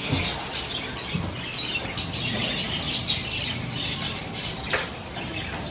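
Small pet birds chirping, many short high calls overlapping.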